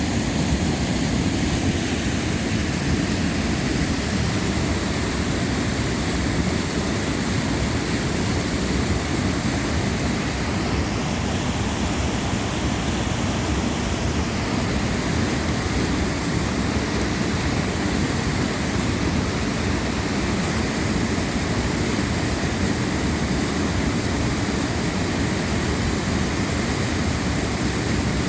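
Waterfall rushing steadily: an even, unbroken wash of falling water, deep and heavy in the low end.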